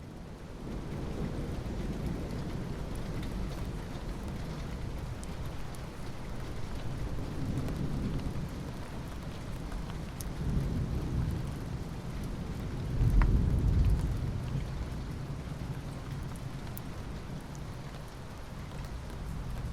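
Steady rain falling, with low thunder rumbling in swells, loudest about two-thirds of the way through.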